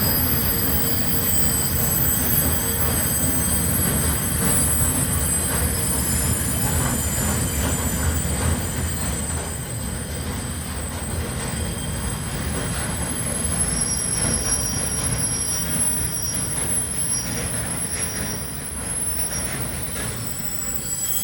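Freight train rolling slowly into a station with its brakes squealing: several high, steady squeal tones over the rumble of the wagons. Another squeal tone joins about two-thirds of the way through.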